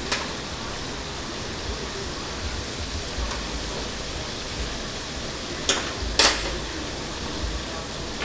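Chicken frying in oil, a steady sizzle, with a sharp knock just after the start and two more about six seconds in.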